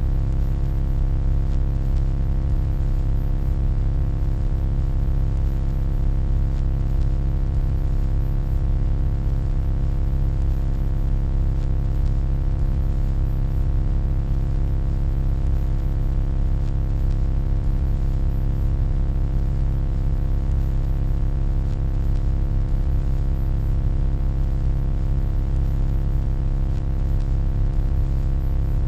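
Steady electronic hum, deep and unchanging, with a set of fainter steady tones above it and a light hiss.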